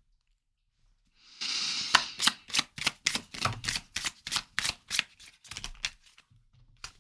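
A deck of tarot cards being shuffled by hand: a short rustle, then a quick run of sharp card snaps, about three or four a second, stopping about a second before the end.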